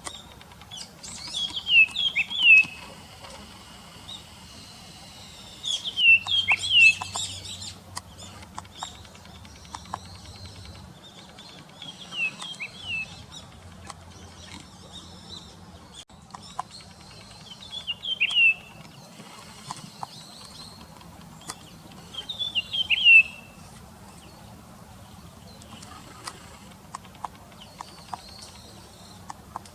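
Japanese grosbeak calling: five short bursts of quick, falling chirps, several seconds apart.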